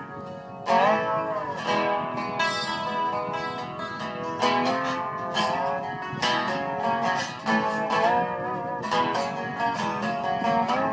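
Dobro (resonator slide guitar) picking a slow melody, single plucked notes with several sliding glides up and down in pitch.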